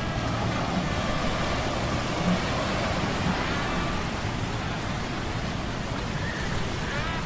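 Steady hum of metal gears layered over a continuous sea-storm rush, with faint wavering whines rising and falling above it.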